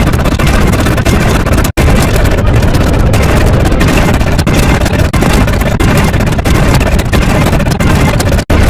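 Loud, steady rumbling noise like a heavy engine, cut off for an instant twice: about a second and a half in and near the end.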